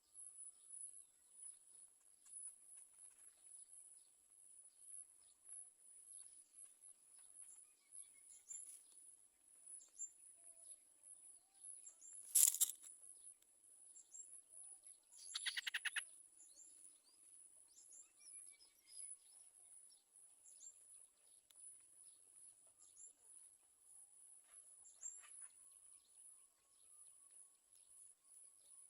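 Faint outdoor ambience: a steady high-pitched insect drone with scattered faint bird chirps. There is a sharp knock about twelve seconds in, and a quick rattling run of calls a few seconds later.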